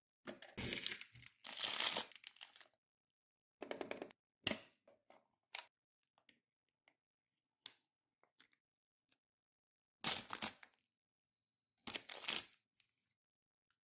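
Toy packaging being torn open and crinkled in bursts: a long spell of tearing and crinkling at the start, then shorter rustles and small clicks, and two more crinkling bursts near the end.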